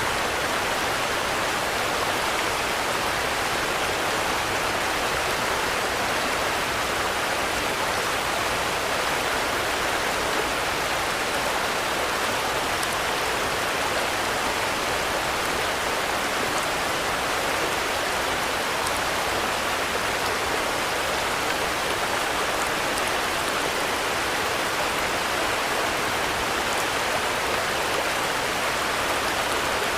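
Steady rainfall, an even hiss of drops with no thunder and no change in strength.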